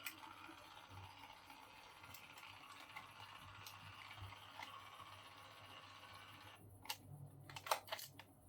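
DYMO LabelManager 100 label maker printing: its tape-feed motor and print head run with a faint, steady whirr for nearly seven seconds and then stop, followed by a few sharp clicks about a second later.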